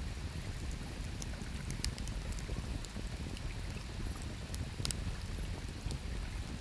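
Wood campfire crackling, with scattered sharp pops, the loudest about five seconds in, over the steady low rush of river water.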